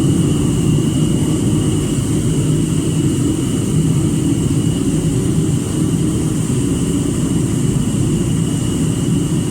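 A machine running steadily: an even, deep roar with a thin, constant high whine over it.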